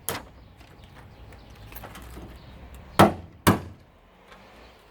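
Three sharp knocks from hand work on a washing machine motor being stripped for scrap: a light one at the start, then two loud ones half a second apart about three seconds in.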